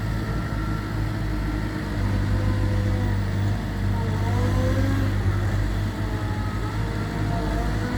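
Gehl V420 skid steer loader's diesel engine running under work, getting louder and easing off in turn, with a faint whine that wavers up and down in pitch.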